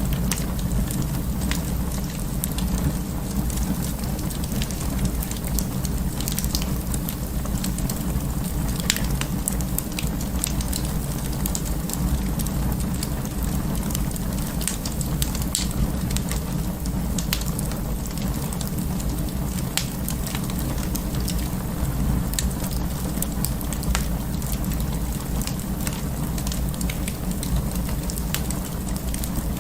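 Wood fire burning in an open fireplace: a steady low rumble of flame with irregular crackles and pops scattered throughout.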